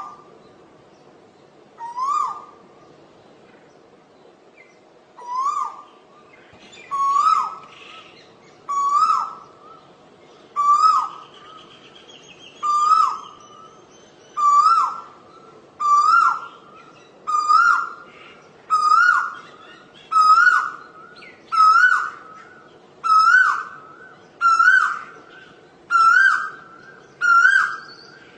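Asian koel singing its repeated two-note "ko-el" call, each one swooping up and falling back, over and over about every second and a half, climbing a little in pitch and coming slightly faster as the series goes on.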